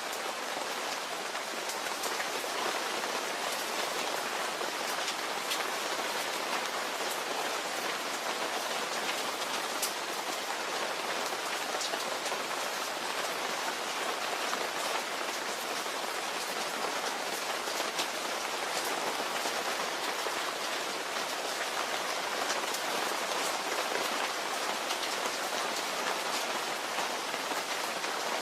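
Steady rain falling, an even hiss with many small individual drop hits scattered through it.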